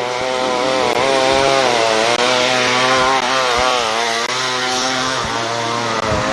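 Gas chainsaw running, its engine pitch rising and falling repeatedly as it revs.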